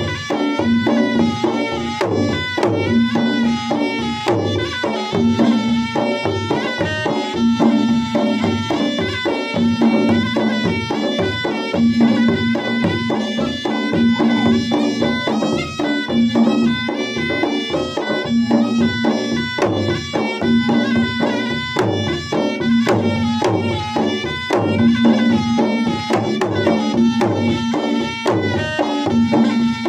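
Traditional Makassar–Bugis wedding gendang ensemble playing continuously: two-headed drums beaten in a fast, dense rhythm, with a reedy wind melody over them.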